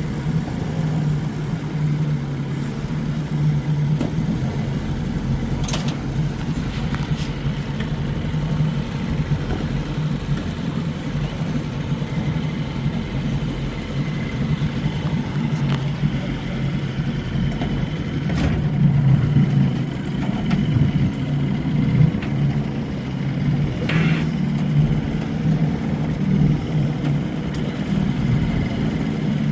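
Vintage Johnson 20 hp two-stroke outboard motor running at a steady speed, pushing a small boat along.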